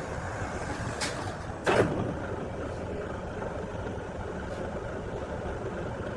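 Steady running machinery or engine noise, with a sharp click about a second in and a brief louder burst just after.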